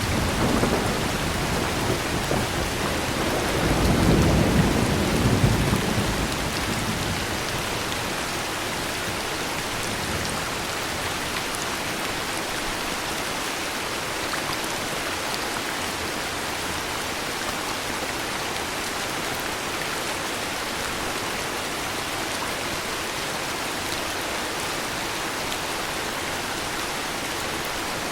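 Heavy rain falling steadily, with a rumble of thunder in the first few seconds that swells about four seconds in and fades by six seconds. After that, only the steady rain.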